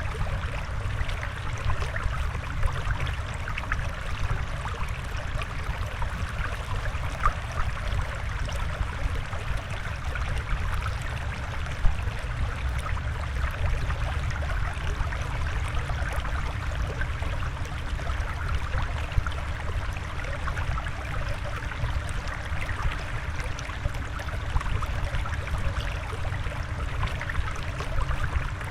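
Steady flowing, trickling water with fine bubbling flickers and no breaks.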